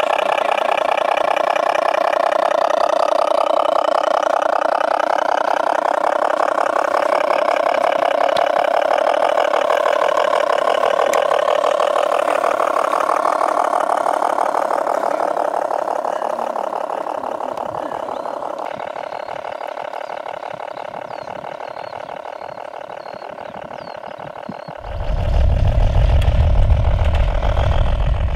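Engine of a USAAF-style tractor running steadily, growing gradually fainter from about halfway through as it moves off. A loud low rumble joins it near the end.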